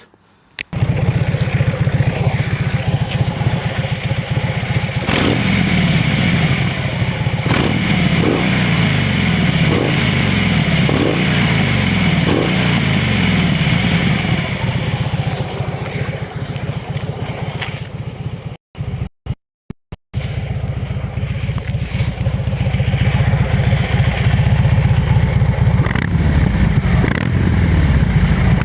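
2012 Harley-Davidson Dyna Fat Bob's 96 cubic inch Twin Cam V-twin running at a standstill. In the first half it is blipped on the throttle in a quick run of about six short revs, each rising and falling back to idle. The sound breaks off for about a second just after halfway, then the engine idles on.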